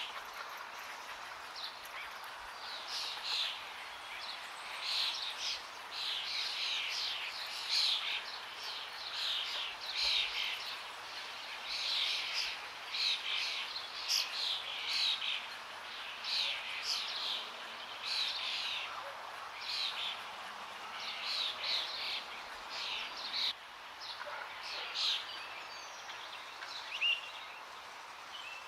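Forest birds chirping and calling over and over, short quick calls coming thickly through most of the stretch and thinning near the end, over a steady rush of flowing water.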